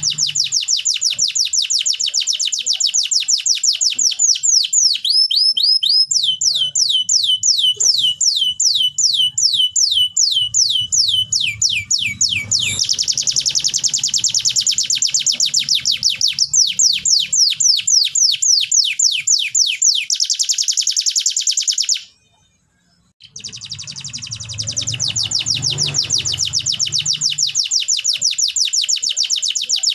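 Domestic canary singing in long fast trills, each run of one repeated note changing to another every few seconds. The song breaks off for about a second roughly two-thirds of the way through, then carries on.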